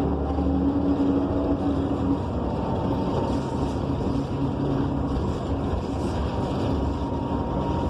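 Interior of a Gillig BRT Plus transit bus under way: its Cummins Westport ISL G natural-gas engine running with steady road and tyre noise. A low hum drops out about two seconds in.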